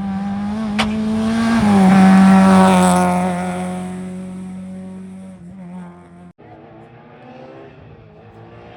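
Historic rally car passing close at speed under hard throttle. Its engine note climbs, gives a sharp crack under a second in, drops in pitch as the car goes by, then fades into the distance.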